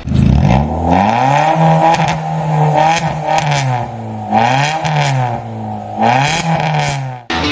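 Suzuki Swift engine revving through an aftermarket valvetronic exhaust, its note dropping and climbing again several times before cutting off abruptly near the end.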